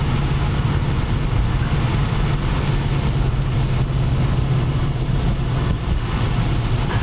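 Steady noise inside a moving car's cabin: a constant low engine drone over tyre and road noise on a snow-covered road.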